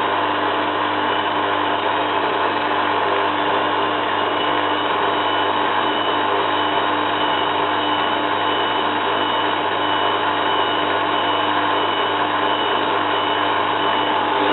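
Zanussi FLA1002W front-loading washing machine spinning its drum at a steady speed: the motor hum holds one pitch with a steady high tone above it. This is a short spin burst between rinses, ahead of the distribute and final spin.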